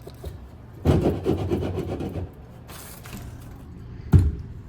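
Sand poured into a cast iron tray, a grainy rush lasting about a second and a half, followed near the end by a single heavy clunk of something set down on the tray.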